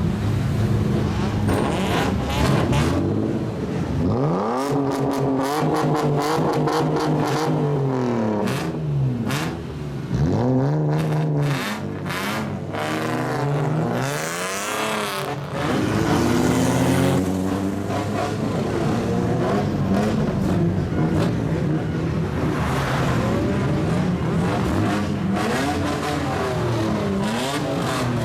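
Straight-piped exhausts of lowered kaido racer cars, revving repeatedly as they drive past one after another, their pitch rising and falling with each blip of the throttle.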